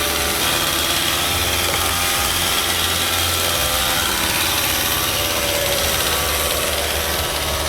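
Chainsaw engine running steadily, a loud even drone with a constant low hum, cutting off suddenly at the end.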